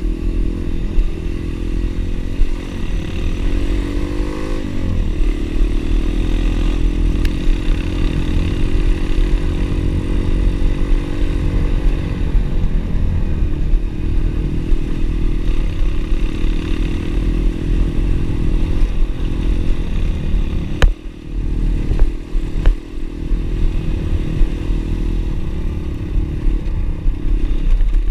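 Single-cylinder pit bike engine running under way, revving up about four to five seconds in. Two sharp knocks, like the bike jolting over bumps, come about three-quarters of the way through.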